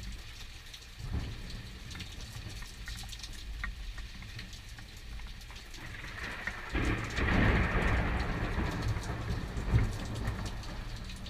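Thunder following a lightning strike, over steady falling rain. A small rumble comes about a second in, then a loud, deep rumble rolls in about seven seconds in and holds for a few seconds before easing off.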